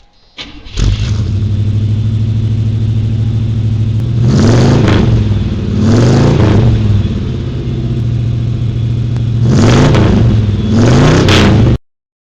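Car engine catching and settling into a steady idle, then revved four times, each rev rising and falling in pitch. It cuts off abruptly near the end.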